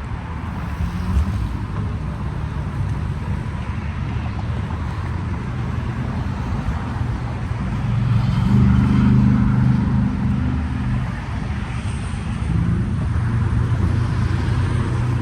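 Car engines running steadily outdoors. One engine grows louder for a couple of seconds about eight seconds in, then settles back.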